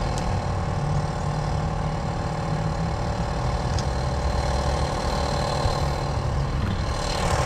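Tomos Silver Bullet moped's small single-cylinder two-stroke engine idling steadily.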